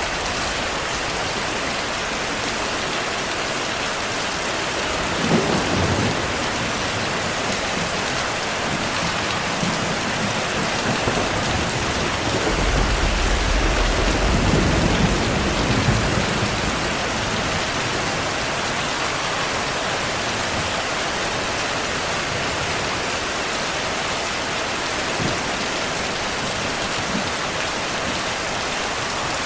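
Steady heavy rainfall hissing, with a sharp thunderclap about five seconds in and a longer rolling rumble of thunder near the middle.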